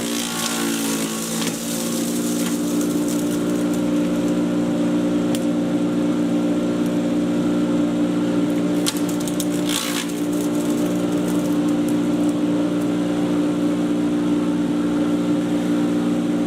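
Patriot 1.5-HP electric chipper shredder running at a steady speed with a constant motor hum. Brief crackles come near the start, about five seconds in, and again about nine to ten seconds in.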